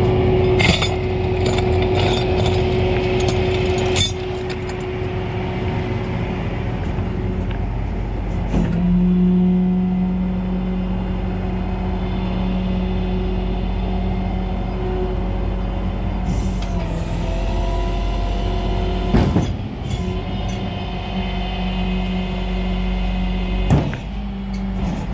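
Flatbed tow truck's engine running steadily, heard from inside the cab, with the engine note changing a couple of times. A few sharp clicks near the start and two short knocks later on.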